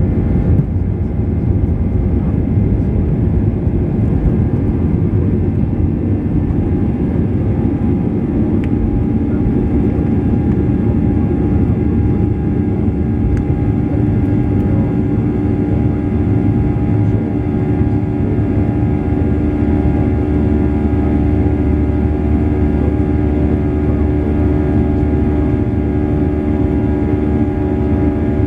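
Boeing 737-800's CFM56 jet engines running steadily, heard inside the cabin as a loud, even roar with a steady whine in it.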